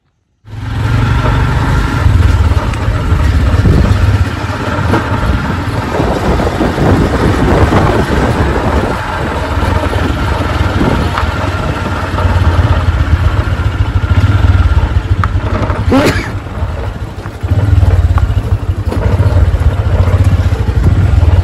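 A motor vehicle running, with a loud, continuous low rumble that starts suddenly about half a second in and a single sharp crack near the end.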